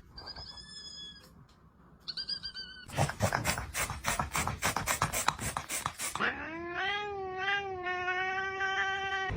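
Domestic cat making odd vocal noises: two short, high chirps, then about three seconds of rapid clicking, then one long drawn-out yowl.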